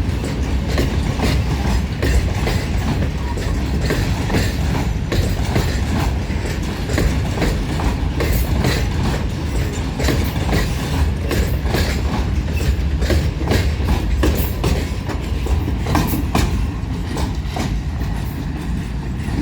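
A train passing close by: a steady low rumble with a rapid, uneven run of clicks as the wheels cross rail joints. It eases a little near the end.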